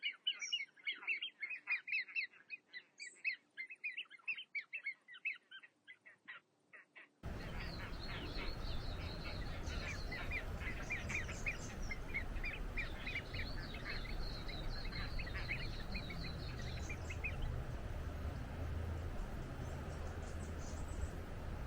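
Small birds chirping and singing. About seven seconds in, a steady rush of flowing water cuts in abruptly, and the birds go on singing over it.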